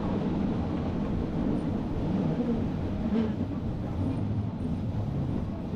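Rhaetian Railway train running on the Bernina line, heard from an open observation carriage: a steady low rumble of wheels on rails.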